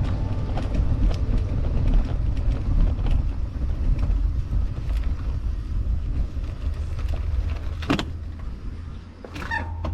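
Wind rumbling on the microphone during a bicycle ride, with scattered clicks and rattles. A sharp knock comes about eight seconds in, and a short pitched squeak just before the end.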